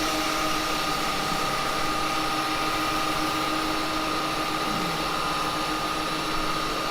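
Axminster wood lathe motor running steadily at nearly 2000 rpm, a constant whine with a steady hum underneath, as a beeswax rag is pressed against the spinning cherry wood to burnish the finish.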